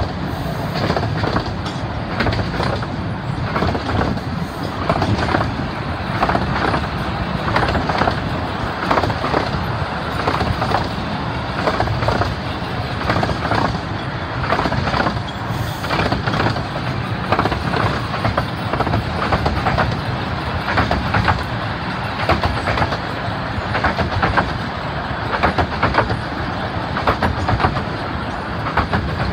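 A 15-inch-gauge miniature railway train's carriages rolling along the track, wheels clattering over the rails with frequent irregular clicks and knocks over a steady rumble.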